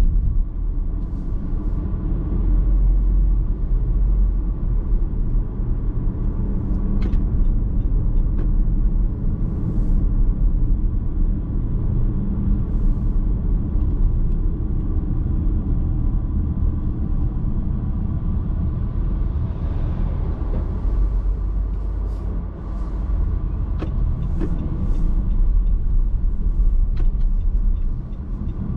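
Car driving on the road, heard from inside the cabin: a steady low rumble of tyres and drivetrain, with a few brief clicks and taps.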